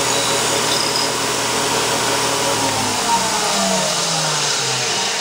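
Shop-built belt grinder running at high belt speed, a loud steady hiss of the belt with the hum of its motor. About three seconds in, the motor's tones begin to slide downward as the grinder slows.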